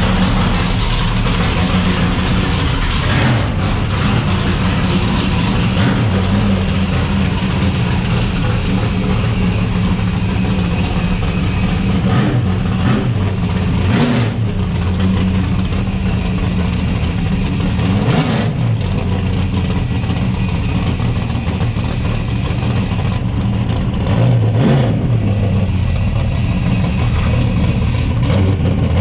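1969 Chevrolet Corvette C3's V8 engine running under way, its revs rising and falling several times as it accelerates and shifts.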